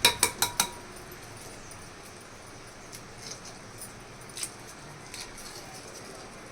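Kitchenware clinking: a quick run of about five sharp clinks at the start, then a few light scattered clinks.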